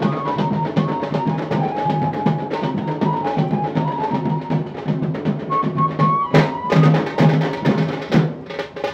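Tasa drum band playing fast, dense stick strokes on tasa kettle drums over a steady deeper drum beat, with a thin wavering melody line above. A sharp crash-like hit comes about six seconds in, and the playing is louder after it.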